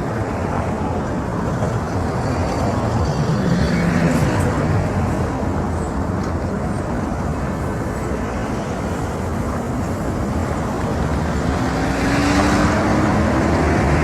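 Road traffic noise, a steady rumble of motor vehicles, with an engine rising in pitch near the end as a vehicle speeds up.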